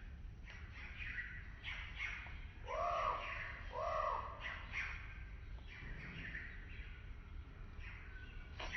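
Forest birds calling: two loud, harsh, arched calls about a second apart, about three seconds in, over continual short chirps from smaller birds and a low steady rumble.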